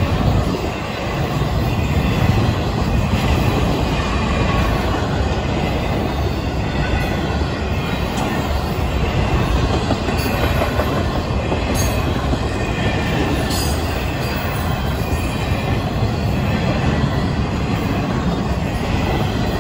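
Florida East Coast Railway intermodal freight train's container and trailer cars rolling steadily past: a continuous heavy rumble and rattle of wheels on rail, with a few sharp clicks in the middle.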